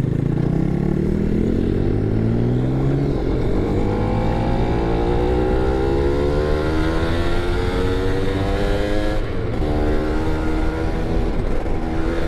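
Yamaha F1ZR two-stroke motorcycle engine under hard acceleration, its pitch climbing through the gears with brief drops at two upshifts, around three seconds in and again near nine seconds.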